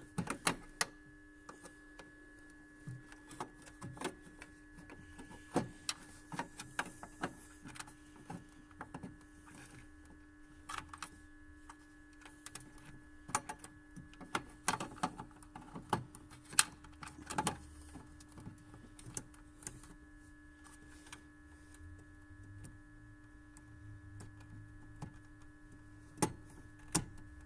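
Scattered small clicks and taps of hands working a halogen angel-eye bulb into a headlight housing, twisting it to lock it in, over a steady faint hum.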